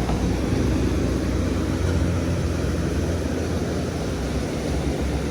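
Heavy vehicle engine, a bus or truck, running with a steady low rumble, easing off slightly near the end.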